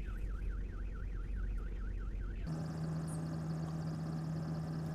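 A warbling electronic alarm tone rising and falling about four times a second, which cuts off abruptly about halfway through. After it comes a steady vehicle engine hum.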